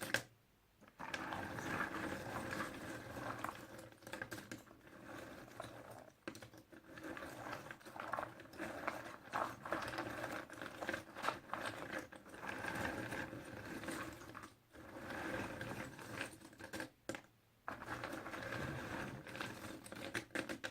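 Puzzle pieces being handled and shuffled, a continuous clatter of small clicks and rustles with a few brief pauses.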